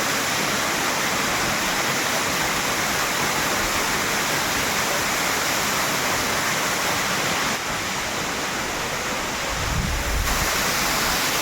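Gundicha Ghagi waterfall rushing: a steady, even noise of falling water. Near the end, wind buffets the microphone with a low rumble.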